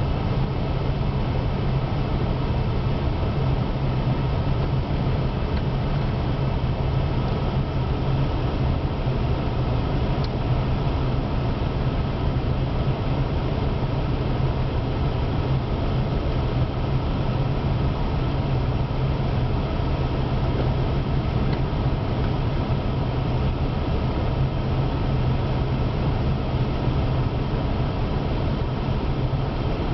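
Pontiac car engine idling steadily, heard from inside the closed cabin as an even low hum.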